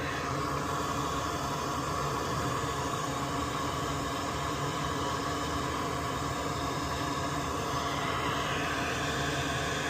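Small fan running steadily: an even hiss with faint steady hum tones.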